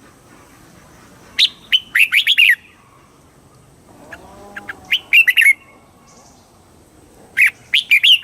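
Red-whiskered bulbul singing: three short bursts of quick, loud warbled notes, about three seconds apart.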